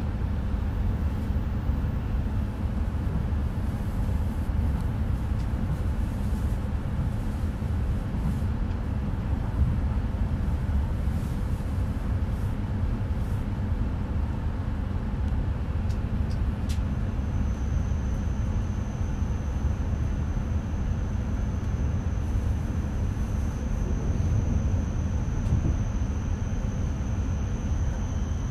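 An E5 series Shinkansen train running at speed, heard from inside the passenger cabin as a steady low rumble. A faint high steady whine joins a little past halfway.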